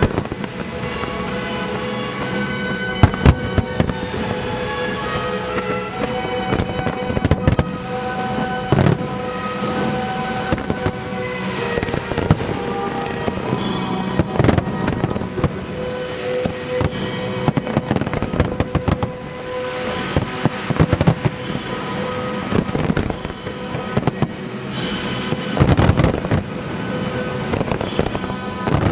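Aerial fireworks shells bursting in irregular bangs, with clusters of crackling, over music playing steadily underneath.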